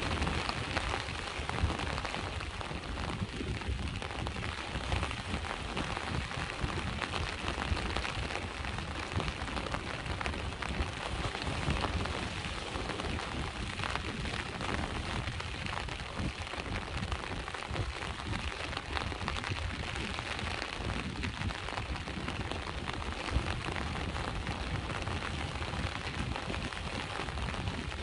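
Steady rain falling, mixed with the low wash of sea waves, a continuous even hiss over a deep rumble.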